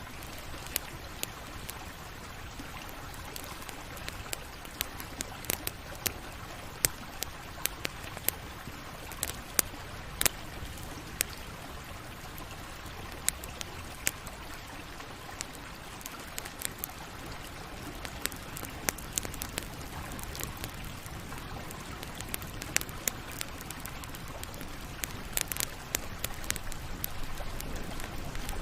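Campfire crackling: irregular sharp pops and snaps from the burning wood over a steady low rush of the flames, growing a little louder near the end.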